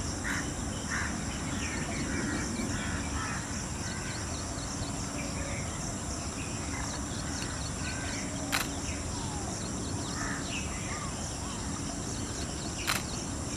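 Outdoor ambience: insects droning steadily in a high, thin tone, with scattered short bird chirps. Two sharp clicks, one past the middle and one near the end.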